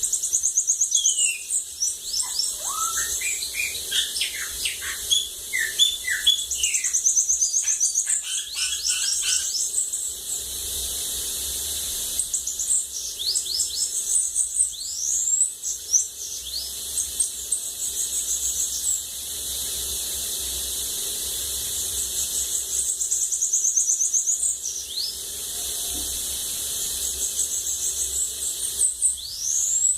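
Bananaquit (sibite) singing: high, thin, buzzy trills repeated every few seconds. During the first ten seconds or so they are mixed with lower chirps and whistled glides.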